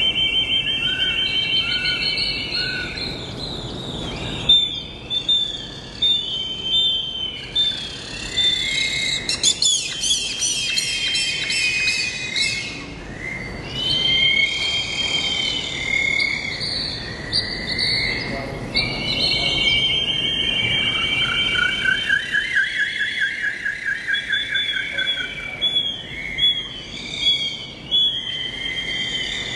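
Several birds singing and calling together, with overlapping chirps, whistles and fast trills.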